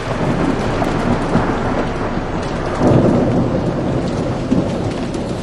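Heavy rain falling with rumbling thunder, which swells louder about halfway through.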